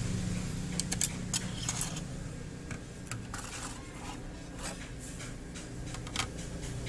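Small clicks and rattles of a RAM module being handled and fitted into the motherboard's memory slot, over a steady low hum.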